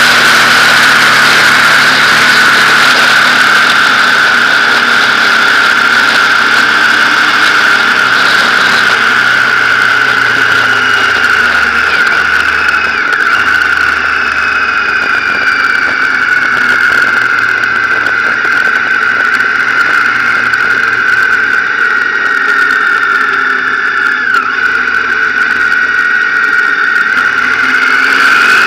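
Motorcycle engine running on the road under loud wind noise, with a steady high whistle throughout. The engine note eases down around ten seconds in.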